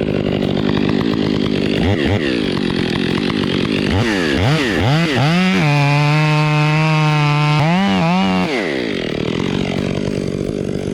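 Battery-powered Milwaukee chainsaw running and cutting wood, its motor whine repeatedly rising and falling as the trigger is squeezed and eased, then held at a steady high pitch for about two seconds midway before dropping again.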